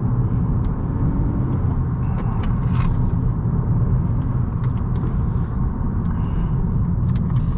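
A 2018 Honda Accord's 1.5-litre turbocharged four-cylinder and its tyres heard from inside the cabin while it is driven along a winding mountain road: a steady low rumble with scattered light ticks.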